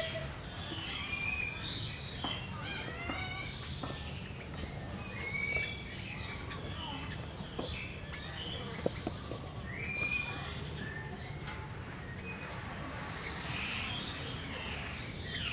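Outdoor ambience: scattered short, high bird chirps over a steady low hum, with faint distant voices.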